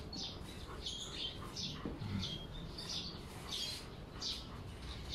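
Small birds chirping over and over: short, high chirps, many of them falling slightly in pitch, about two a second.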